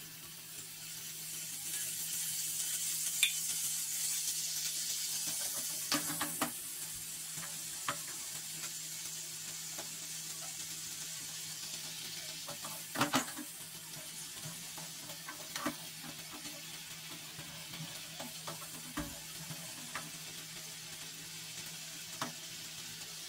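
Canned tuna in its oil sizzling in a frying pan with sautéed garlic and onion, strongest in the first few seconds after it goes in. A wooden spatula stirs it with occasional knocks against the pan, the loudest a quick pair about 13 seconds in.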